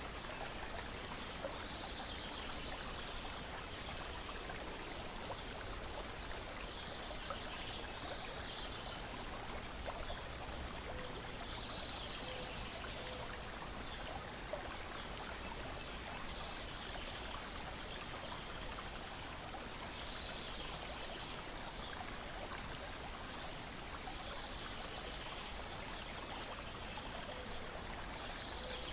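Gentle lake waves lapping steadily against the shore and a wooden deck: a continuous soft wash of water with recurring swells.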